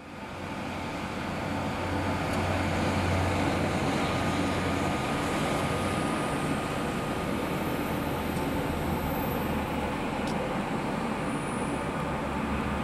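A GKB Stadler GTW diesel multiple unit running past, its engine giving a steady low hum under the wheel and rail noise.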